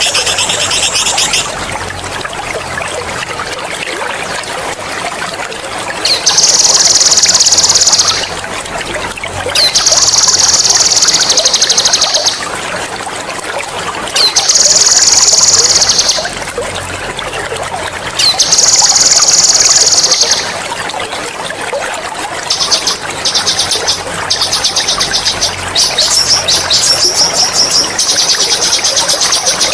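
Songbird singing long, loud, rapid rolling trills ('ngerol'): four trills of about two seconds each, then shorter choppy trills in quick succession near the end. Underneath runs a steady trickle of running water.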